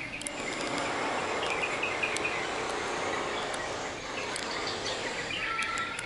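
Small birds chirping in quick clusters of short notes, about one and a half seconds in and again near the end, with a brief whistled note at the close, over a steady outdoor background hiss.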